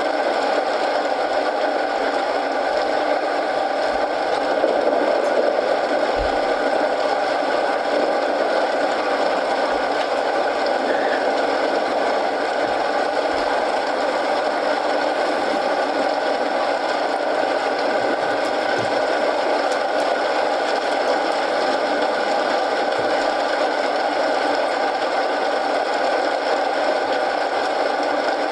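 Steady rain falling, an even hiss, with a few faint crackles from a wood fire in a fireplace.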